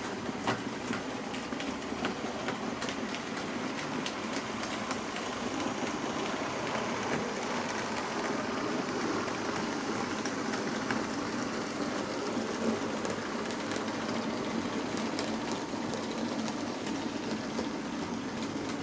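OO gauge model train running on the layout, its wheels clicking over the rail joints with a continuous running noise, swelling slightly in the middle.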